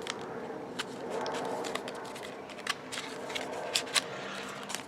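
Plastic blister packaging of a flash drive being handled and pried open: irregular sharp clicks and crinkles over a faint steady background hum.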